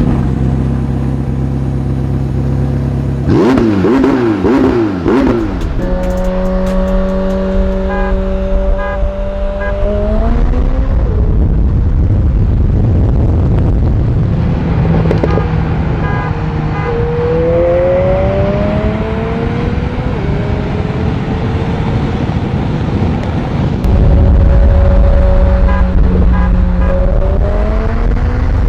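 Cars in a high-speed roll race: a McLaren 765LT's twin-turbo V8 revs in short wavering bursts a few seconds in, then runs under hard acceleration, its pitch holding and then climbing again several times.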